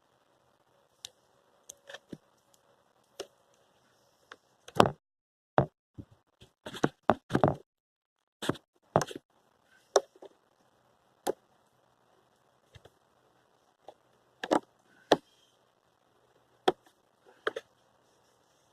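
Sharp clicks and knocks at irregular intervals, with a dense cluster in the middle and a few more later, from hands working at the car's under-hood fuse box to pull a fuse.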